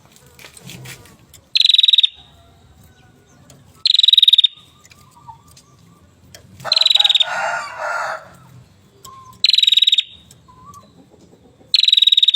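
A prenjak gunung (hill prinia) calling loudly and repeatedly: five short, rapid rattling trills, each sliding slightly down in pitch, about every two to three seconds. The middle call is longer, with a harsher rasp underneath it.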